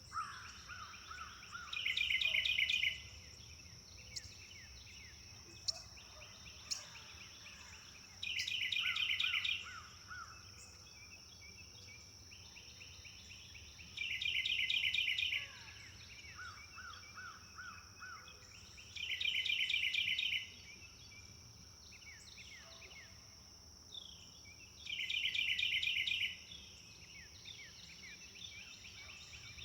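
Birdsong: a bird repeats a loud, rapid trilled phrase five times, about every five to six seconds, with softer chirps from other birds in between. A steady high-pitched insect drone runs underneath.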